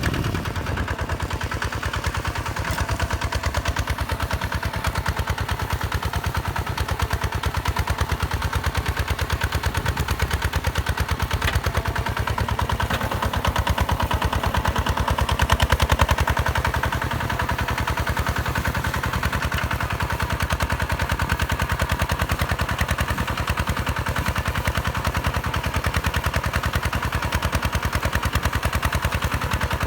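Diesel engine of a Hinota HG Gold 155 DI tractor running with a rapid, even chugging beat, growing a little louder about halfway through.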